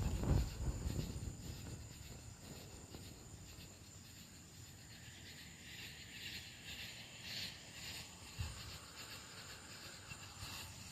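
Insects, crickets or similar, chirping faintly and steadily. A sharp knock sounds right at the start, followed by a brief low rumble, and there is a soft thump about eight seconds in.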